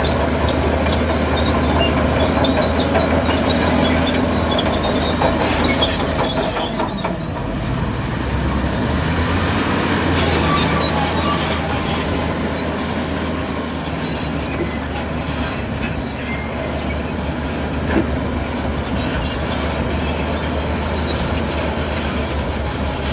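Zoomlion crawler bulldozer working: its diesel engine runs steadily under a dense metallic clatter from the machine, easing slightly about seven seconds in.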